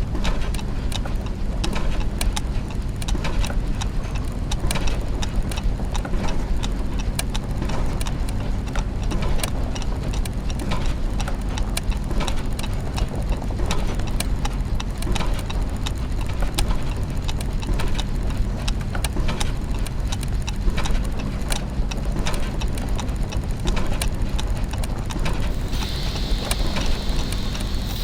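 Clockwork gears and mechanisms ticking and clicking in a dense, irregular stream over a steady low machinery hum. A higher hiss joins near the end.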